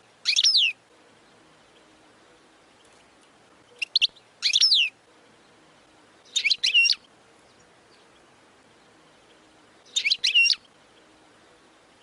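European goldfinch singing in short twittering bursts: four brief phrases of quick notes that sweep down in pitch, with pauses of a second or more between them.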